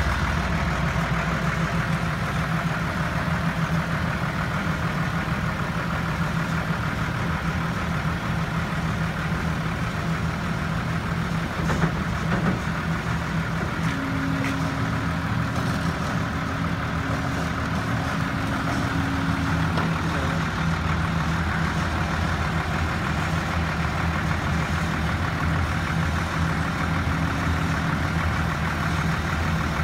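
Heavy diesel engine running steadily at a low, even speed. There is a single knock about twelve seconds in, and a thin steady whine joins it for several seconds about halfway through and again briefly near the end.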